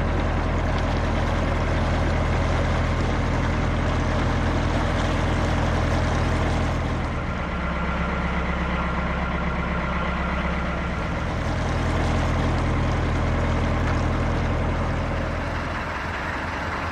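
Narrowboat engine running steadily while cruising, its low note shifting a little around the middle.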